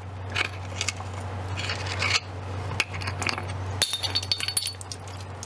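Light metallic clinks and scrapes of tools and parts being handled, with a short metallic ring about four seconds in, over a steady low hum.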